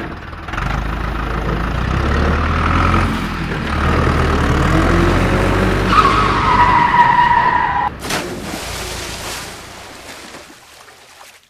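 Motor vehicle engine running with a heavy rumble, with a high tyre-like squeal from about six to eight seconds, then a short hiss of noise before it fades out.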